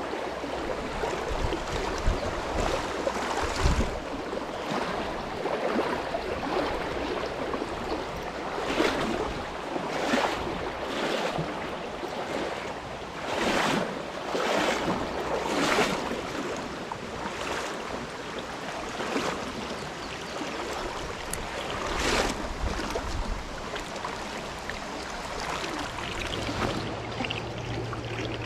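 Flowing stream water with short swishing splashes every second or two. A low steady hum comes in near the end.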